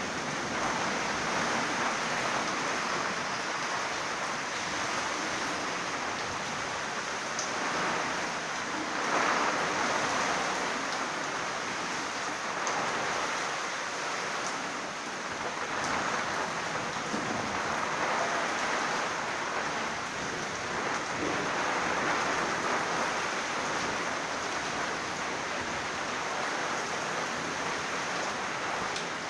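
Heavy rain falling steadily, an even hiss that swells and eases a little every few seconds.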